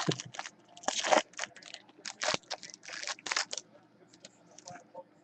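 Trading-card box packaging being torn open: quick crinkling, tearing and scraping strokes that thin out and fade over the last second or two.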